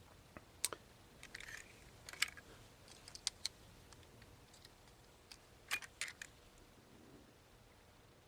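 Faint, scattered clicks and light taps of small diecast Matchbox toy cars being picked up and handled, with a pair of clicks about three seconds in and a short cluster a little after the middle.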